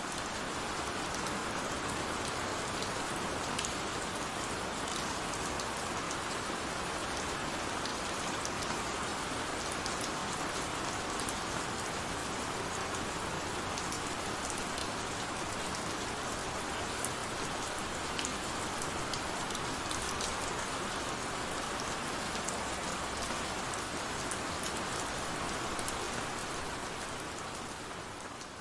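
Heavy rain falling steadily: a dense hiss of rain with individual drops ticking through it. It fades in at the start and begins to fade out near the end.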